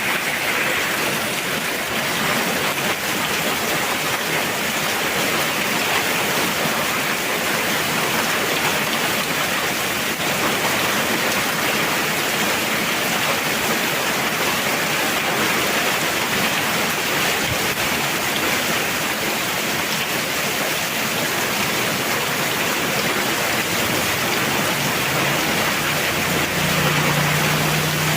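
Heavy rain falling in a steady, dense downpour. A low steady hum comes in near the end.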